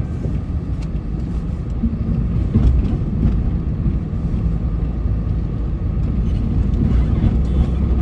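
A motor vehicle running, a steady low rumble with a faint steady whine above it.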